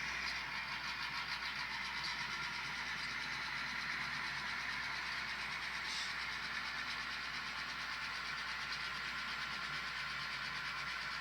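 Sound-equipped model diesel locomotive running steadily as it switches cars on a model railroad.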